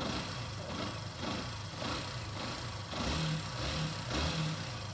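Yamaha Factor 150's single-cylinder engine running and being revved lightly a few times, now fairly quiet on a newly replaced cam chain. The owner puts the remaining knock down to the clutch housing.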